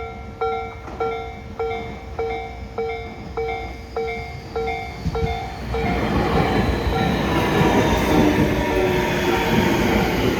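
A level-crossing warning bell dings about every half second. After about six seconds it is buried under the rising rumble and hiss of a Tobu 60000 series electric train pulling into the station.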